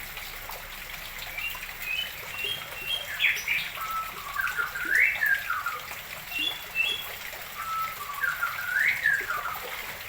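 A songbird singing two similar phrases of whistled, gliding notes, a second or so apart, over the steady trickle of water running into a fish pond.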